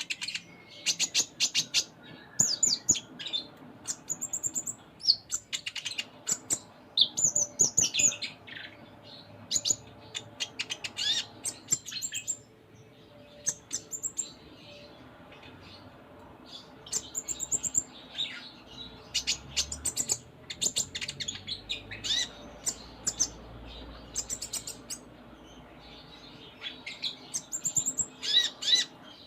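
Kolibri ninja (konin) sunbird singing: rapid runs of high, thin chirps and trills in bursts with short pauses, a busy 'full isian' song laced with phrases learned from other birds.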